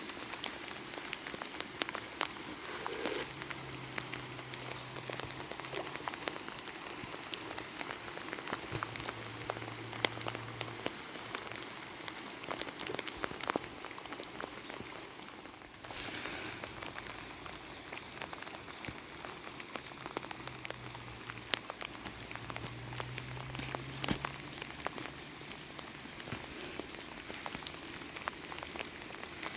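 Steady rain falling, with many individual drops striking close by in sharp ticks over the even hiss of the downpour; the rain briefly drops away about sixteen seconds in and picks up again at once.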